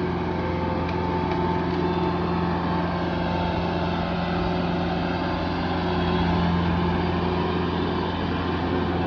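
Tractor engine running steadily at constant speed, a low even hum.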